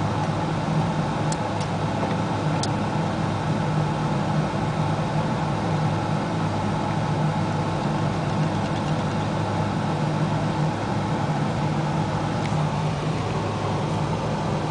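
1988 Isuzu Trooper's 2.6-litre four-cylinder engine idling steadily, heard from inside the cabin.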